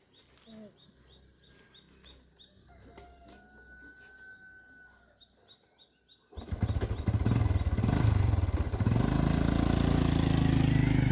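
Quiet rural background with a steady high insect drone and a few bird chirps; about six seconds in, a motorbike engine starts and runs loudly, rising slightly in pitch near the end.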